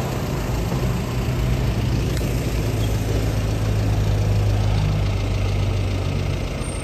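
Vehicle engine running with a steady low hum that grows louder a few seconds in and drops away near the end.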